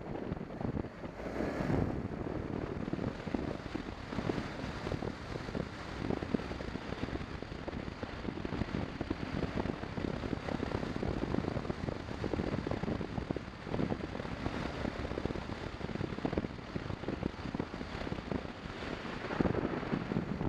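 Motorcycle riding along, heard from a camera on the bike: wind buffeting the microphone over the rumble of engine and road. The wind swells in gusts near the start and near the end.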